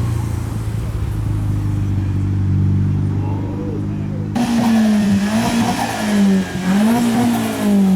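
Nissan 350Z's V6 engine running at a steady low note, then revved hard about four seconds in, its pitch climbing and dropping twice before falling away near the end.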